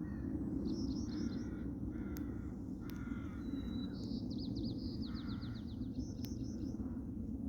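Wild birds calling in a garden: several short chirps and lower calls, with a fast high trill about halfway through, over a steady low rumble.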